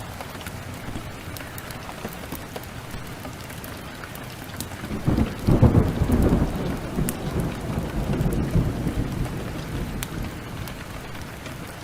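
Steady rain, with a roll of thunder breaking about five seconds in that rumbles low and slowly dies away over several seconds.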